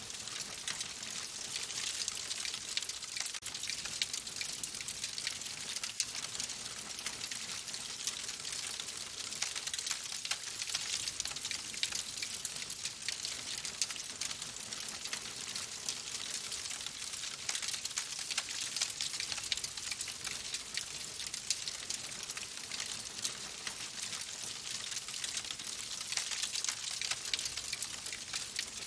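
Wood fire crackling in a fireplace: a steady hiss dotted with many small, quick pops and snaps throughout.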